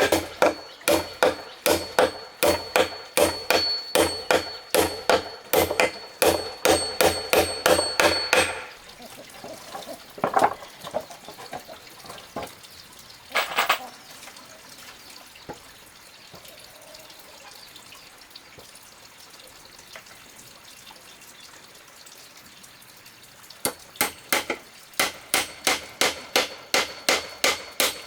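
Steady hammering, about two to three blows a second, with a faint metallic ring. It stops about eight seconds in, giving way to quieter scattered knocks and handling sounds, and starts again near the end.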